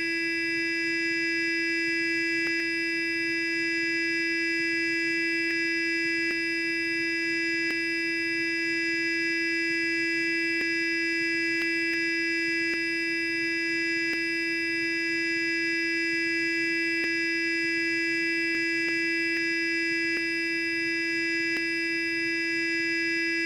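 Electric sonic toothbrush running continuously, a steady high-pitched buzz that never changes in pitch or loudness.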